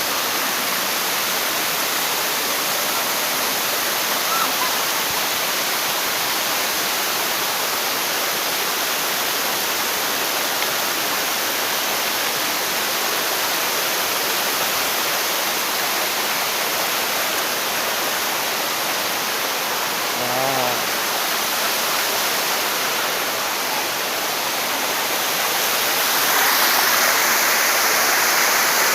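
Waterfall rushing steadily, growing louder near the end.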